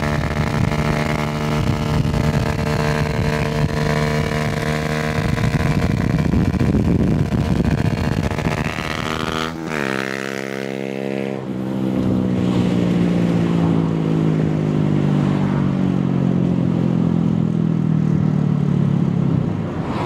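Honda CBR250R's single-cylinder engine running on the road, its note steady at first. About halfway through the pitch drops sharply, then the note falls slowly as the bike slows, and the sound cuts off suddenly at the very end.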